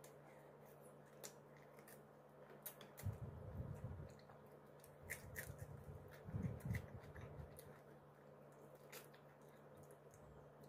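Quiet chewing and small clicking mouth sounds of a person eating fried fish with her fingers, over a steady low hum. There are two short, louder low spells, one about three seconds in and one a little past six seconds.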